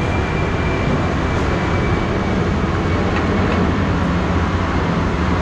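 Steady vehicle rumble with road noise.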